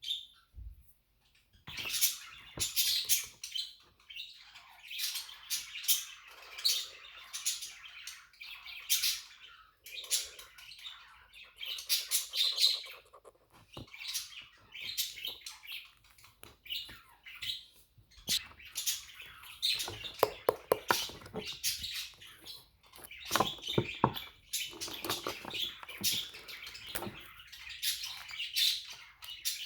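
Pet budgies chirping and chattering: a busy, continuous run of short high calls from several birds.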